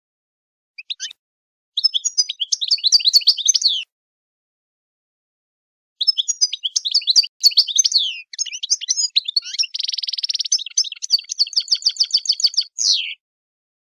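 A songbird singing in phrases. There is a short chirp about a second in, then two seconds of quick trilled notes. After a pause comes a long song of rapid chirps, sweeps and trills with a buzzy rattle in the middle, ending about a second before the end.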